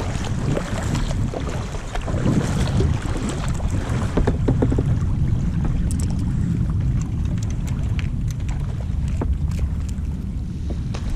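Wind rumbling steadily on the microphone of a kayak out on open water, with scattered short clicks and small water splashes.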